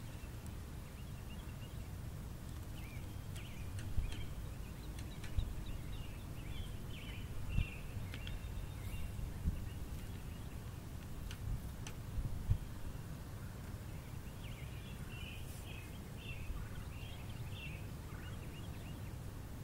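A bird pecking and striking at its reflection in a car's side mirror, with sharp taps every second or two, against chirping birds and a steady low rumble.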